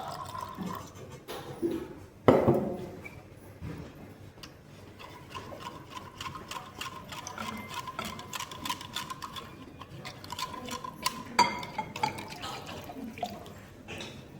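Water being poured into a bowl of sweetened condensed milk, with light clinks of a utensil against the bowl. There is a sharp knock about two seconds in and another near the end of the pour.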